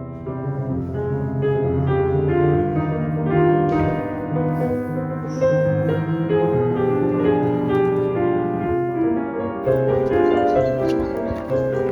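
Piano playing a melody over held low notes.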